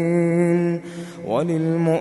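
A male voice recites the Quran in a melodic tajweed style. It holds a long drawn-out vowel, takes a short breath about a second in, then rises in pitch into the next phrase.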